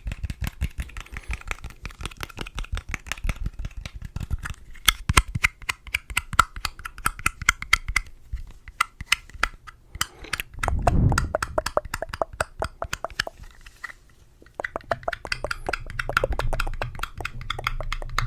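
Rapid ASMR tapping close to a sensitive microphone: fast crisp clicks several times a second, with a couple of short pauses and a duller thump partway through.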